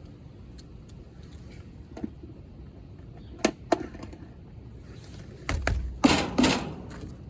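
Work on air-conditioner copper pipes being handled: two sharp clicks, then about a second and a half of rough scraping and rustling near the end.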